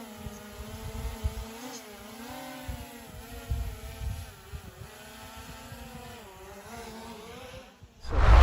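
A motor running steadily, its pitch wavering slightly up and down, with wind gusting on the microphone. A loud sudden sound cuts in near the end.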